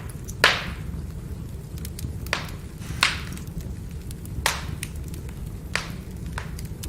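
Burning firewood crackling, with about six sharp pops and snaps, the loudest about half a second in. Under them runs a steady low rumble of the flames.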